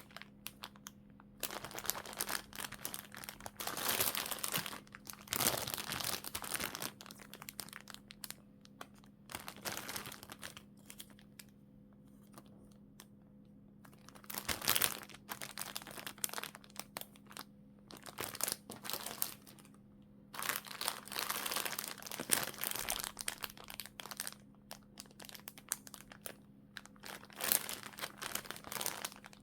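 Plastic packaging crinkling and rustling as goods are unwrapped by hand, in irregular bursts with a few short pauses.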